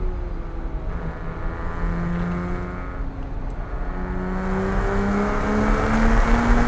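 Porsche 987.1 Cayman S's 3.4-litre flat-six running while driving, its pitch dipping slightly in the first second, holding, then rising steadily over the last couple of seconds as the car accelerates.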